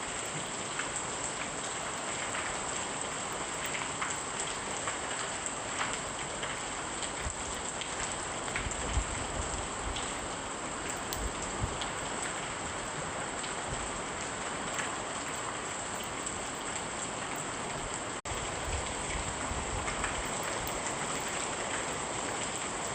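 Steady rain falling, with scattered light drop ticks; the sound dips for an instant about eighteen seconds in.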